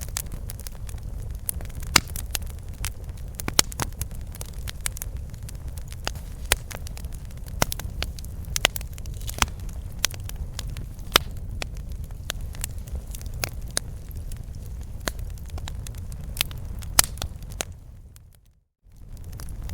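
Wood campfire crackling and popping with irregular sharp snaps over a steady low rumble of the flames. Near the end the sound briefly fades to silence and comes back.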